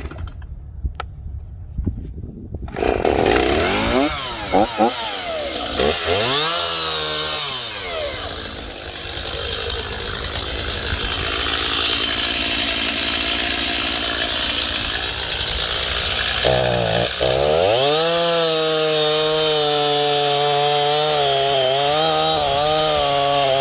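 Small two-stroke chainsaw comes on about three seconds in, revs up and down, then runs steadily at high speed. It drops briefly to idle about two-thirds of the way through and revs back up.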